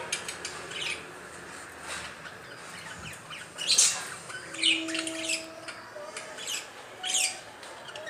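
Small pet parrots giving several short, shrill squawks and chirps, the loudest about four to five seconds in and another near the end.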